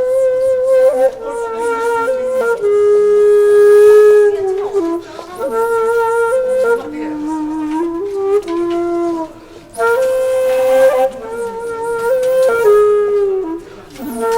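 Background music: a solo flute-like wind instrument playing a slow melody of long held notes that waver and bend in pitch, with short breath-like gaps between phrases.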